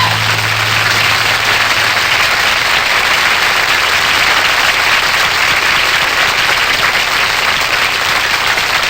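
Studio audience applauding, with the band's last low note fading out under it in the first couple of seconds.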